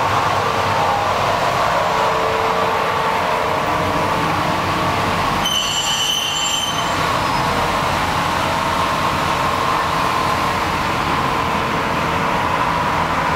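Shizuoka Railway electric train rolling slowly into the platform, with steady whining tones over the running noise. A brief high squeal comes about five and a half seconds in.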